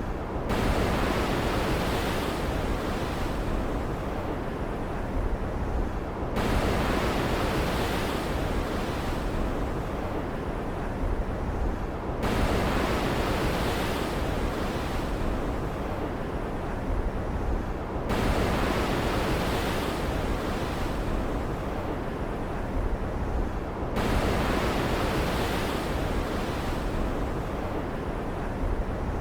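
Stormy ocean ambience: a steady rushing of surf and wind. It swells sharply about every six seconds, five times, as waves break, then eases off.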